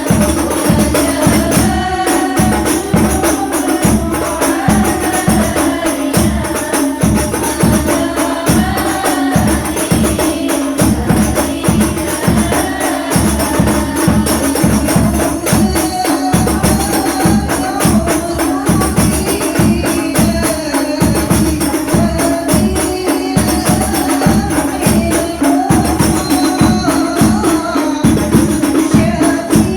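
Voices singing sholawat over a quick, steady beat of hand-struck frame drums and jingles.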